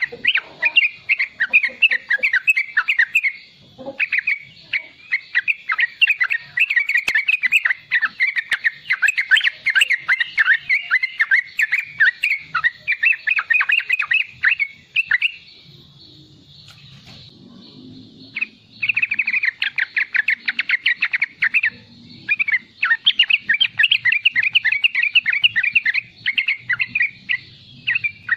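Young yellow-vented bulbul (trucukan) giving its rapid twittering 'riwik' chatter in long fast runs of short chirps, breaking off for about three seconds past the middle before starting again.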